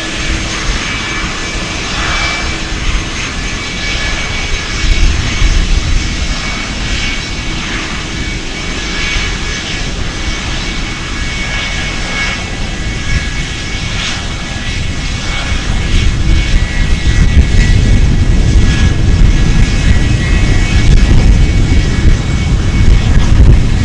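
Aeroplane engines running with a steady high whine over a rumbling roar; the low rumble grows louder about two-thirds of the way through.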